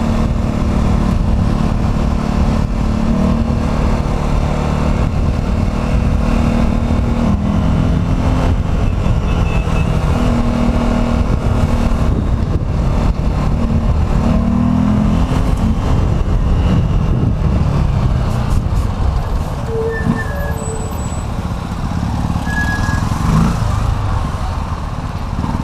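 Steady road-vehicle engine and traffic noise while riding through city streets, a continuous low rumble with a few short faint tones near the end.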